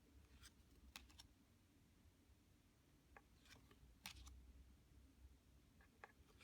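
Faint, scattered clicks and light taps of a deck of Lenormand cards being handled and flipped through, about eight in all, the loudest a little after four seconds in, over a quiet room hum.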